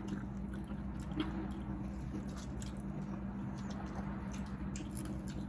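Close-up eating sounds: chewing with small wet mouth clicks and smacks as cooked sea snails and french fries are eaten. A steady low hum runs underneath.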